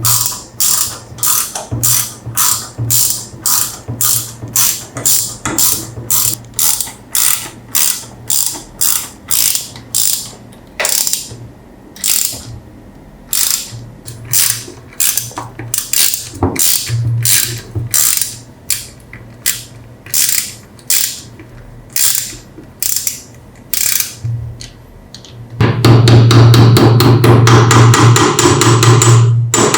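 Ratchet mechanism clicking in a steady rhythm, about two clicks a second. Near the end it turns into a louder, rapid continuous rattle.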